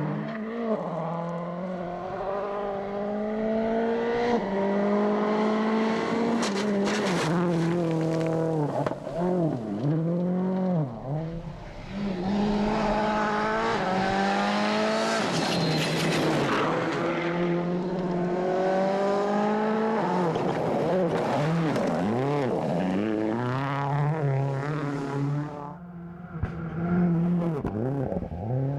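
World Rally Car's turbocharged four-cylinder engine driven hard on a special stage: revs climb in short steps through the gears, then drop sharply and swoop back up as the driver brakes and changes down, twice in quick succession around the middle and again near the end. Stretches of rushing noise lie under the engine.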